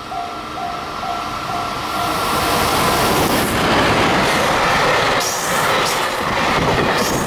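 EF210 electric locomotive and its container wagons passing close at speed: a loud rush of wheel and rail noise that swells about two seconds in and holds, with wheels clicking over the rail joints. For the first two seconds a pulsed tone repeats about two and a half times a second, then stops as the train noise takes over.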